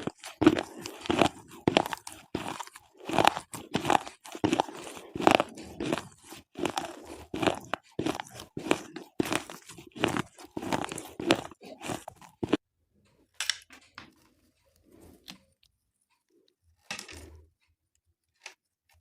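Slate pencils being bitten and chewed close to the microphone: rapid, sharp crunches about two a second that stop about twelve seconds in, leaving only a few faint clicks.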